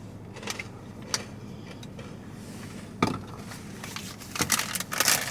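Scattered clicks and rustling from objects being handled, one sharper click about three seconds in, turning into dense crackly rustling near the end, over a steady low hum.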